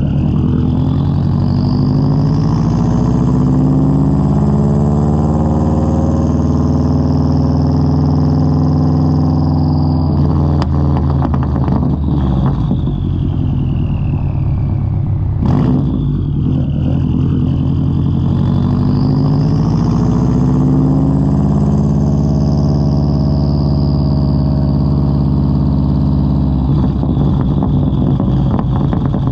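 2003 Subaru WRX's turbocharged flat-four running through a Tomei straight-pipe exhaust while driving: the engine note climbs and then eases off twice, with a high whine rising and falling along with it. About ten seconds in, as it comes off the throttle, the exhaust crackles and pops, and there is one more sharp pop a few seconds later.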